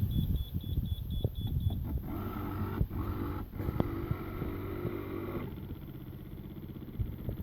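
Raymarine tiller autopilot beeping rapidly, about four short high beeps a second, stopping just under two seconds in. A steady whirring follows for about three and a half seconds, over the continuous low rumble of an outboard motor.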